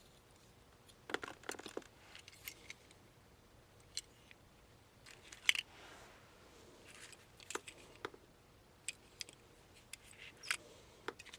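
Small diecast and plastic toy cars being handled, giving light, irregular clicks and clacks, with a louder clack about halfway through.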